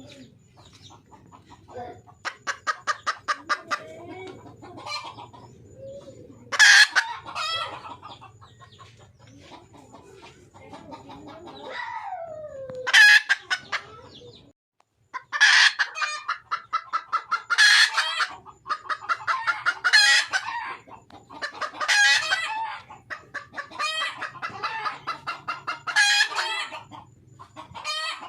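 A junglefowl hen calling for a male with a rapid cackling of clucks. The calls come in loud bursts about every two seconds through the second half.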